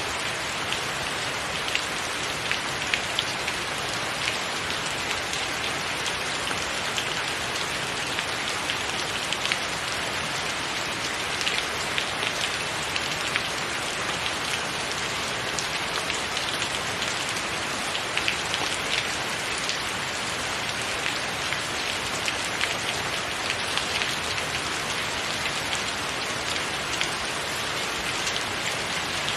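Steady rain falling on a tiled roof: a constant hiss with many sharp individual drops ticking through it.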